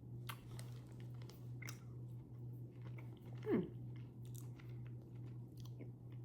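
A person chewing a soft pectin gummy candy, with small wet mouth clicks. About three and a half seconds in comes one short, louder sound that falls in pitch.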